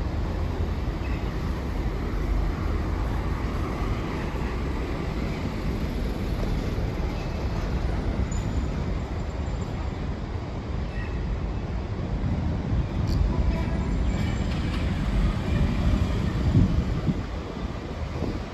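Steady low rumble of vehicle noise, with a few faint clicks and light tonal touches in the second half and a rise in loudness near the end.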